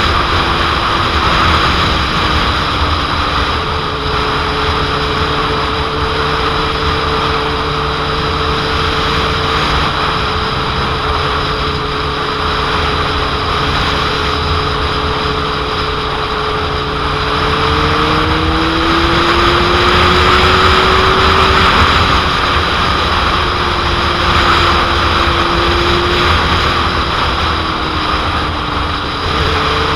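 2001 Suzuki GSX-R750 inline-four running at cruising speed under loud rushing wind noise on the microphone. The engine note holds steady, rises in pitch about 18 seconds in, and eases back down a few seconds later.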